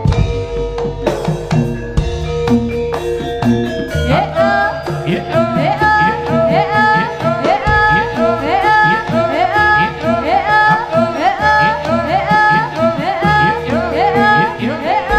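Live jaranan accompaniment: Javanese hand drums and gong-chime percussion playing a steady rhythm. About four seconds in, a wailing melody line joins with short rising phrases repeated about once a second.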